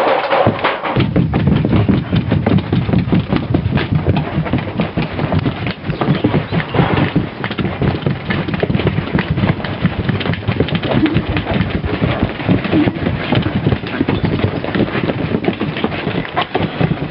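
Belgian Malinois puppies scrambling and bumping close to the microphone: a dense, unbroken run of knocks, taps and rustles.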